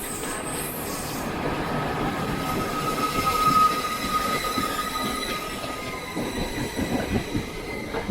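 Passenger coaches' steel wheels squealing against the rails as the train slows into a station, a steady high squeal that swells to its loudest about three and a half seconds in, over the rumble and rattle of the running coaches.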